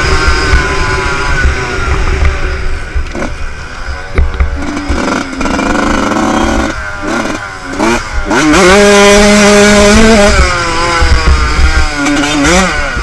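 Motocross bike engine being ridden, the revs repeatedly rising and dropping back off. It holds high revs for about a second and a half after the middle, then drops and climbs again near the end.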